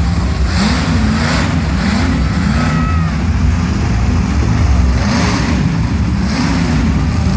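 Monster truck engine revving loudly, its pitch rising and falling again and again over a heavy low rumble.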